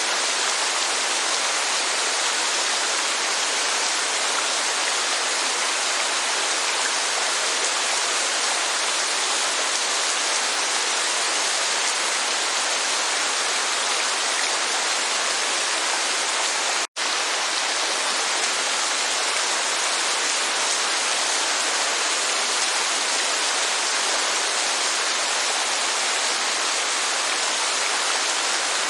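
Steady rushing hiss of heavy rain and falling water, even throughout with little low rumble. It drops out for an instant a little over halfway through.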